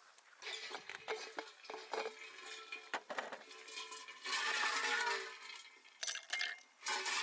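Clinking and knocking of cookware and utensils, a series of small metallic taps with a brief ring after them.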